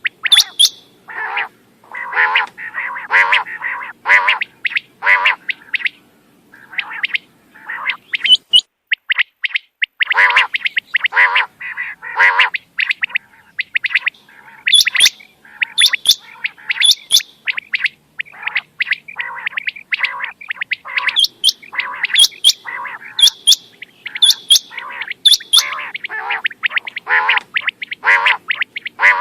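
Quail calling over and over in quick phrases: sharp high-pitched notes mixed with lower, rapid chattering notes, with short gaps between groups. A recorded quail call used as a lure for hunting.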